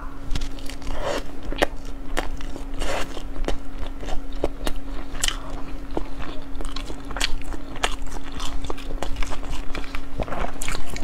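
A person chewing a mouthful of sushi close to a clip-on microphone: irregular small clicks and mouth noises, over a steady low hum.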